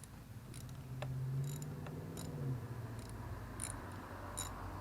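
Hand work fitting a plastic number plate onto a pit bike: a dozen or so short, sharp clicks and snips at an irregular pace, over a low steady hum.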